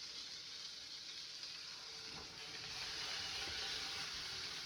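Biscuit dough frying in hot grease in a pan: a steady sizzle that grows a little louder about halfway through.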